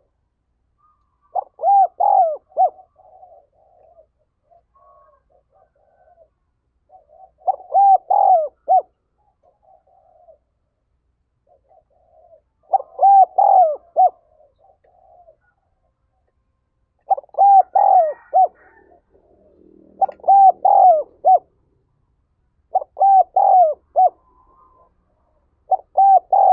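Spotted dove cooing: seven loud phrases of several coos each, spaced a few seconds apart, with fainter cooing in between.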